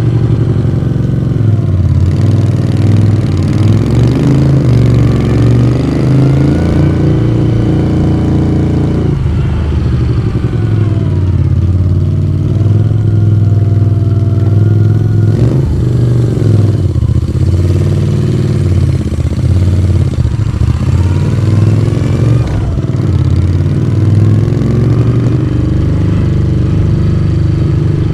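Moto Guzzi V35's air-cooled transverse V-twin under way, exhaust note heard from the rider's seat. The revs climb and then drop sharply, three times over, as the bike accelerates through the gears and eases off on a winding road.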